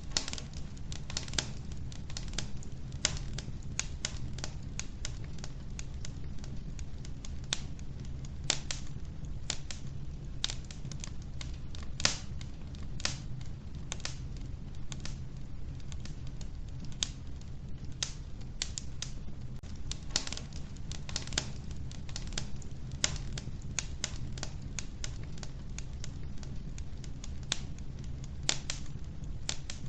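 Wood fire burning in a wood-burning stove: irregular crackles and snaps, several a second with the odd louder pop, over a low steady rumble of the flames.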